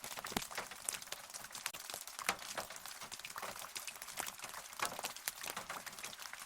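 Rain falling, heard as a steady hiss with many close drops ticking separately and irregularly.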